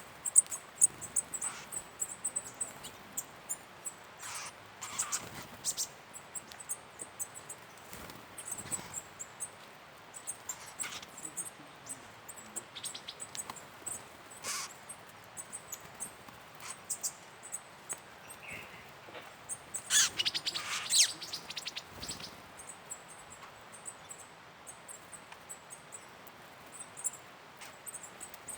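Forest birds giving short, scattered calls and chirps over a constant high-pitched ticking of insects, with a louder flurry of calls about twenty seconds in.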